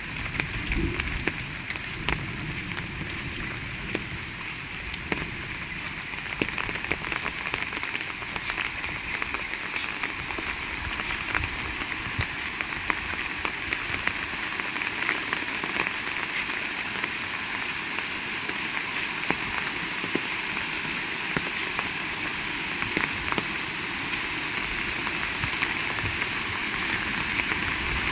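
Heavy rain falling steadily, a dense hiss with many separate drops ticking on surfaces.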